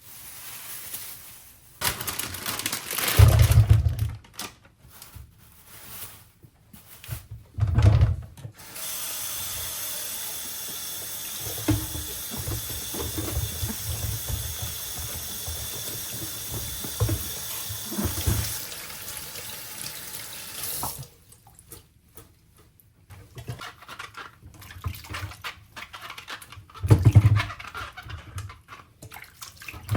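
Water running from a tap into a sink for about twelve seconds in the middle, starting and stopping abruptly, with thuds and clatter of things being handled before and after.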